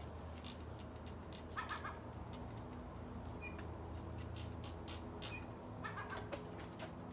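A bird calling briefly twice, about one and a half seconds in and again about six seconds in, over a steady low hum and scattered light clicks.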